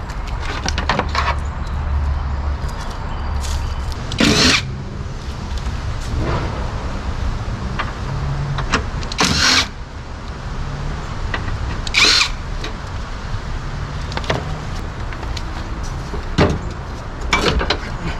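Car repair work noises: parts and hand tools being handled, with four short, loud clatters or scrapes spread through and scattered small clicks over a steady low hum.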